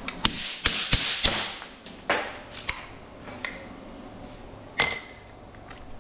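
Scrap sheet metal being handled and knocked about: a string of sharp clanks and clinks, a few of them ringing briefly like struck metal, the loudest one shortly before the end.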